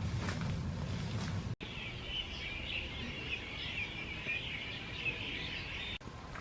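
A dense chorus of small birds twittering, a busy tangle of high chirps that starts abruptly about a second and a half in and stops abruptly just before the end. Before it comes a low rumbling noise with a few light clicks.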